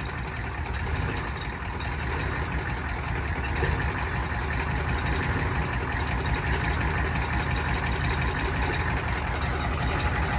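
Ford 7.3 IDI turbo diesel V8 running steadily, growing a little louder about a second in.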